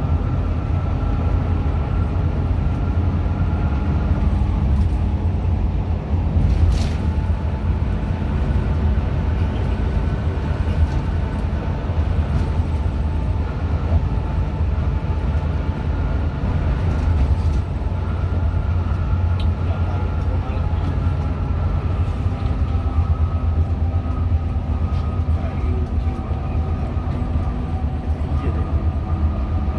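Steady low rumble of a Hino RM 280 diesel coach on the road, heard from inside the passenger cabin, with a faint, slowly drifting whine over it.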